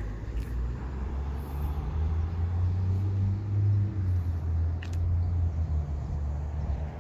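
A 2007 Ford Mustang convertible's 4.0-litre V6 idling with a steady low hum that grows a little louder in the middle.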